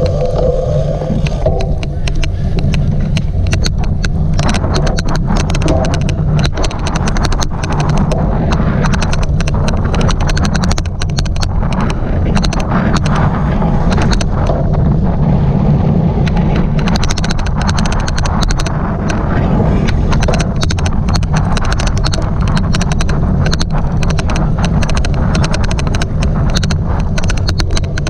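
Loud rumble and wind buffeting of a cyclocross bike ridden hard over rough ground, with an odd, dense stream of sharp, irregular clicks.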